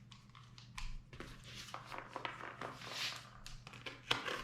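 Rustling, scraping and light taps of a cardboard shipping box being handled, quiet at first and growing busier from about a second in.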